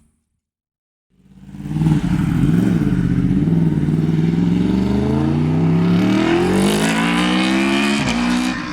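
2015 Yamaha R1's crossplane inline-four accelerating hard in a flyby. After a second of silence the engine fades in loud, wobbles in pitch briefly, then climbs steadily in pitch for several seconds before dropping sharply near the end.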